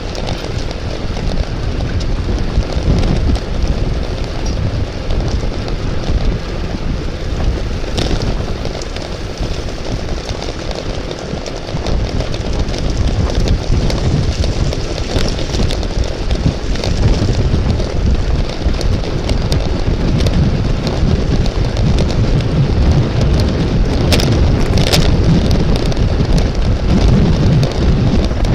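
Wind buffeting the microphone: a loud, steady, low rumbling noise, with a few sharp clicks about eight seconds in and twice near the end.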